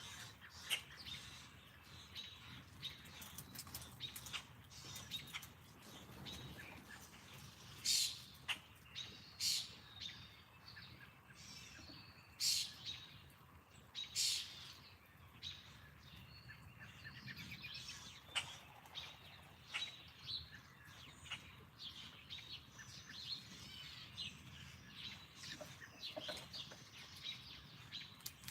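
Wild backyard birds chirping and calling, many short high chirps with a few louder sharp ones, over a faint steady outdoor hiss.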